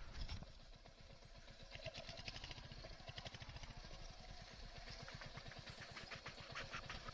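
Motorcycle engine running steadily at low revs, an even, rapid low pulse.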